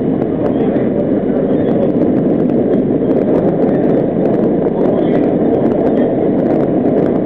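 R40 subway car running at speed through a tunnel: a loud, steady rumble of steel wheels on rail, with faint scattered clicks from the track.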